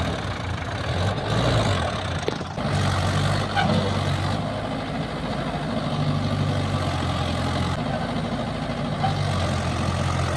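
Mahindra Yuva 585 4WD tractor's diesel engine running steadily, its note stepping up and down a few times.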